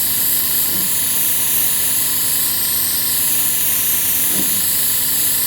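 Paint spray gun hissing steadily as it lays down a coat of silver-flake clear, the hiss of compressed air and paint mist swelling and easing slightly as the gun sweeps.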